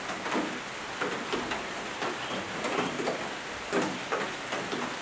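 Rain falling steadily, with many separate drops ticking irregularly on nearby surfaces.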